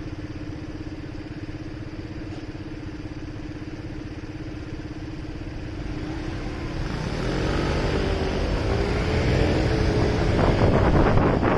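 Motorcycle engine idling steadily, then pulling away about six seconds in, its pitch rising as it accelerates and getting louder. Wind noise on the microphone builds near the end.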